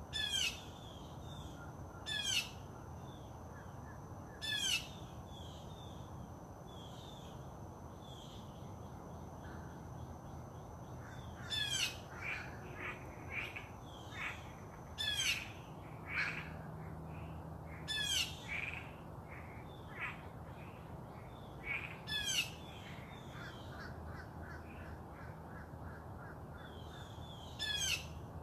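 Birds calling outdoors: a sharp, brief call repeated about ten times, every two to four seconds, with softer chirps in between. A thin steady high tone sounds through the first half.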